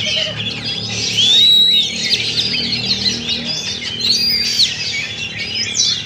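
Many oriental magpie-robins (kacer) singing at once, a dense tangle of chirps and whistles, with a loud arching whistle about a second in and another near four seconds.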